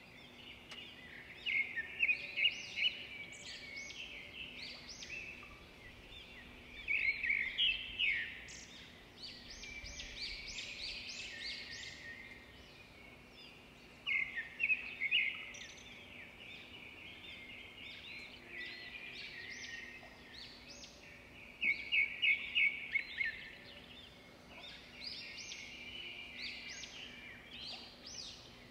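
Bird chirps and trills: quick, high, chirping phrases in bunches every several seconds, over a faint steady hum.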